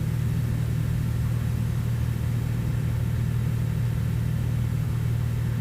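Cessna 182F's six-cylinder Continental O-470 engine and propeller droning steadily at an even level, heard from inside the cockpit.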